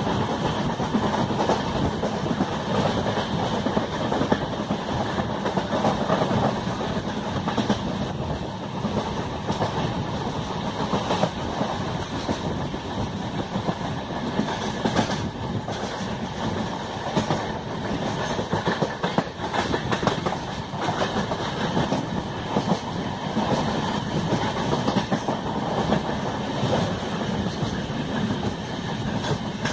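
Passenger train coaches running along the track, heard from the open door of a moving coach: a steady rumbling rush of wheels on rails, with scattered sharp clicks as the wheels pass over rail joints.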